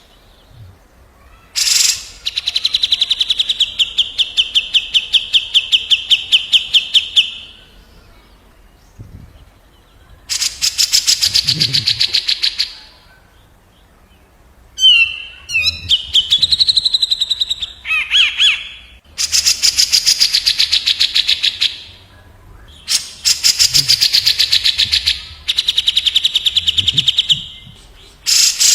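Cucak jenggot (grey-cheeked bulbul) and another songbird trading fast rattling song: bursts of several seconds of rapidly repeated notes, about six a second, separated by short pauses. Around the middle there is a short warbled phrase and a quick falling glide.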